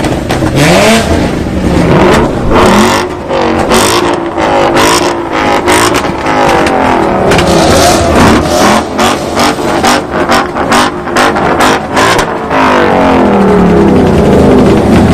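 Car engine revved hard over and over, its pitch climbing and dropping, with a rapid string of exhaust pops and crackles in the middle.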